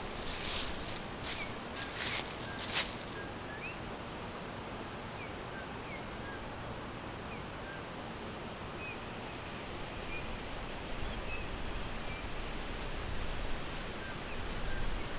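Forest ambience: small birds giving short, scattered chirps over a steady rustling hiss. There are a few sharp rustles or snaps in the first three seconds, the loudest just before three seconds in.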